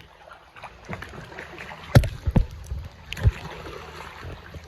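Kayak paddling on open water, with the wash of the water and a few sharp knocks, loudest about two seconds in and once more a second later.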